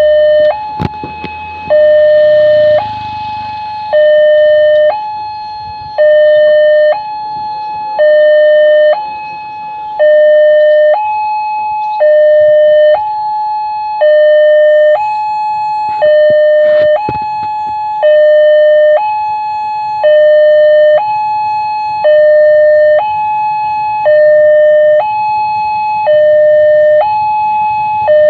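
Railway level-crossing warning alarm sounding a loud two-tone electronic signal, a lower and a higher note alternating about once a second and repeating steadily: the warning that a train is approaching.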